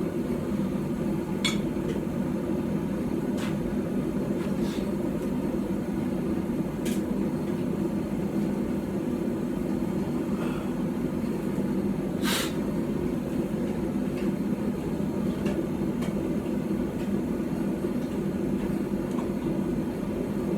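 A forge running with a steady, even roar while the metal heats, with a few isolated sharp clicks, the clearest about twelve seconds in.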